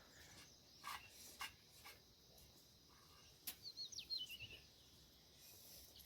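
Near silence: faint outdoor ambience with a few soft clicks, and a short run of high bird chirps, falling in pitch, about halfway through.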